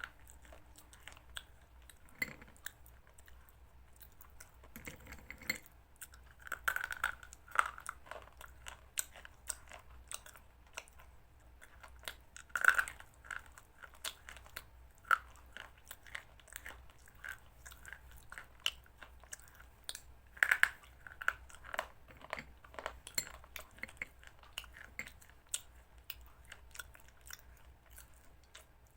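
A person eating chicken salad close to the microphone: irregular crunchy bites and chewing, with a few louder crunches.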